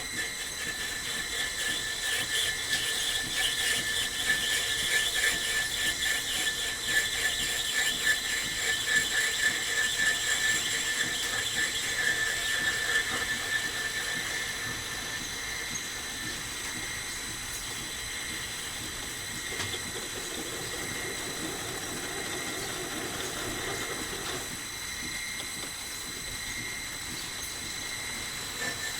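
Lathe running with a steady high whine while the tool cuts the workpiece with a rough, rapidly pulsing scrape. The cutting is loudest in the first half and fades about halfway through, leaving the machine running more quietly.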